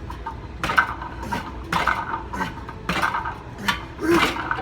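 Repeated short scraping, rattling strokes about twice a second, from gym equipment being worked during an exercise set.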